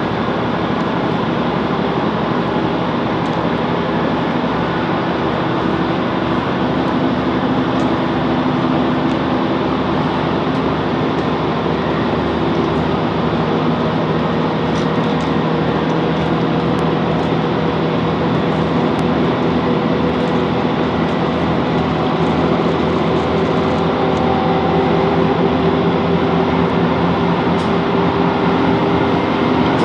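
Class 165 diesel multiple unit running at speed, heard inside the carriage: steady wheel-on-rail rumble under a humming diesel engine drone, growing a little louder in the last few seconds.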